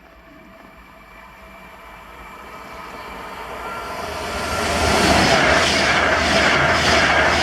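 Class 390 Pendolino electric train approaching at speed, growing steadily louder over about five seconds, then passing close by with a loud rush and a regular beat about two or three times a second.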